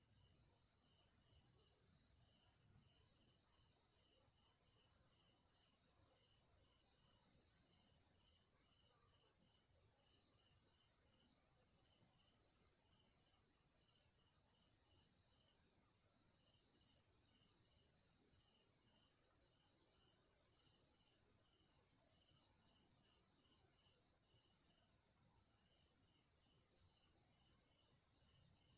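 Faint steady insect chorus: a continuous high chirring, with short high chirps repeating about once a second over it.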